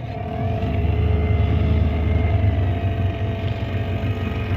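Motorboat engine running, getting louder about a second in and then holding a steady drone.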